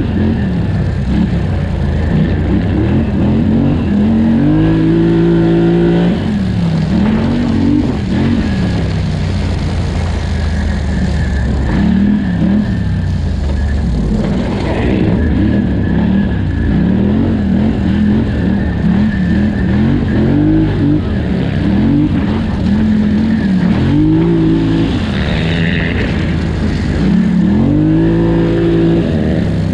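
Polaris Scrambler 1000 XP ATV's twin-cylinder engine revving up and down again and again as the throttle is worked, with a long hard climb about five seconds in and many quick rises and drops after it.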